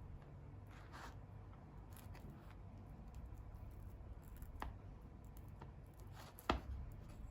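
Quiet handling sounds: soft rustles and small clicks, with one sharper knock about six and a half seconds in.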